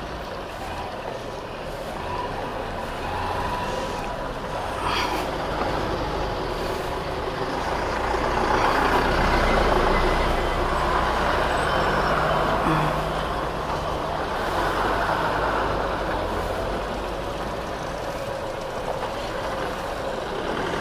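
Motorcycle engine running at low speed as it edges through stopped traffic, with trucks and cars running close by. The rumble grows louder about halfway through, while the bike passes alongside a lorry.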